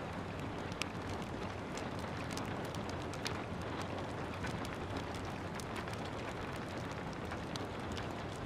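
Steady rain with a wood fire crackling over it: a constant low hiss and rumble, with sharp pops and snaps scattered throughout and two louder pops, one just under a second in and one about three seconds in.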